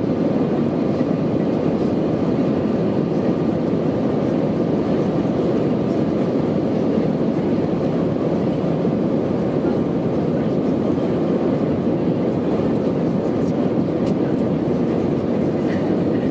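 Airbus A319-111 jet airliner heard from inside the cabin, its CFM56 turbofan engines and the airflow making a loud, steady, even noise with a faint steady whine above it.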